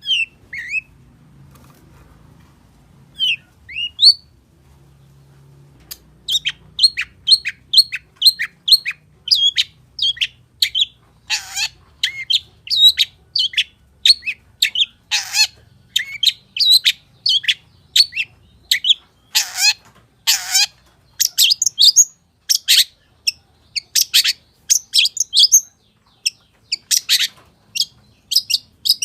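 Long-tailed shrike (pentet) singing: a few scattered rising whistles, then from about six seconds in a rapid, unbroken run of short chirps, two or three a second, with several harsher notes mixed in. The song is packed with fill phrases (isian).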